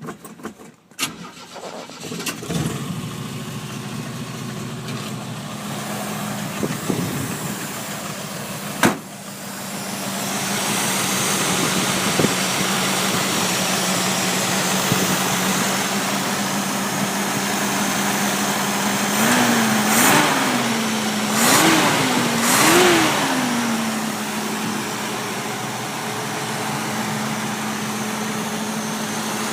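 Cold start of a 1972 Opel GT's four-cylinder engine: it catches about two and a half seconds in and settles into a steady idle, with a sharp click near nine seconds. About twenty seconds in the throttle is blipped four times in quick succession, each rev rising and falling, before it drops back to an even idle.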